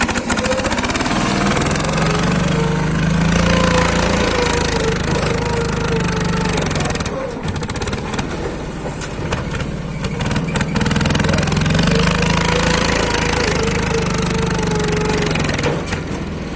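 Lombardini diesel engine of a pat-pat (two-wheel tractor) running hard under load, straining to climb a steep obstacle. It pulls loudest in two long pushes, easing off in between about seven seconds in.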